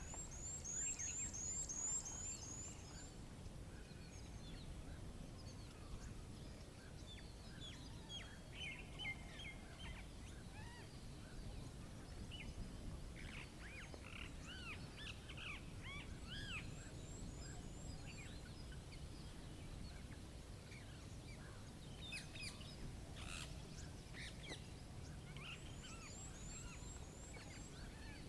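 Nature ambience: small birds chirping and calling here and there over a steady low rumble. A fast, high trill of repeated notes sounds in the first few seconds and returns more faintly twice later.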